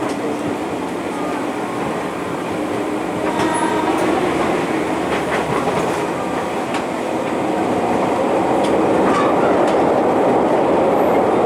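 JR 205 series electric commuter train heard from inside the car while running: a steady rumble of wheels and traction motors with scattered clicks of the wheels over rail joints, getting louder toward the end. A brief pitched whine sounds about three and a half seconds in.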